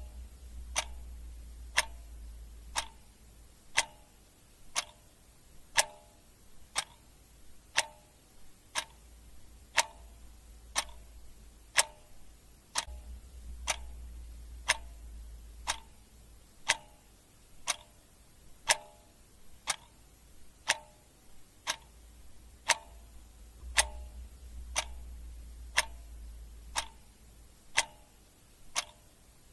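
Clock ticking steadily, about one sharp tick a second, in an even tick-tock rhythm.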